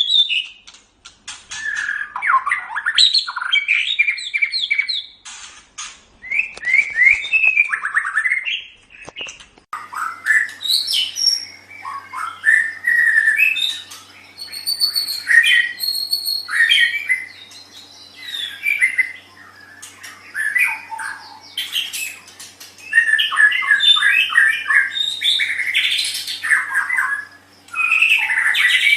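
White-rumped shama (murai batu) singing a long run of varied phrases: rapid trills, sliding whistles and harsh chattering notes, with short pauses between bursts. A faint steady hum comes in about ten seconds in.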